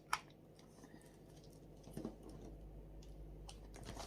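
Faint handling noises: a few sharp clicks and light rustles as the cordless air compressor's box contents and accessories are picked up and moved. The loudest click comes just after the start and a softer one about two seconds in.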